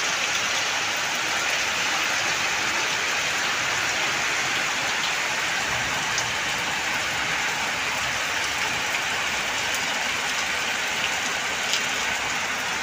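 Steady rain falling and pattering on surfaces, an even hiss with occasional faint drop ticks.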